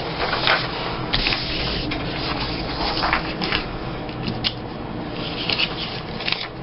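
Sheets of paper being handled: rustling, sliding and rubbing, with a few light taps and clicks.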